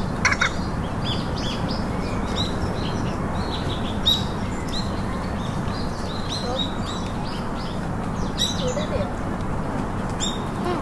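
Small birds chirping: many short, high chirps several times a second, with a few sharper, louder notes, over a steady background hiss.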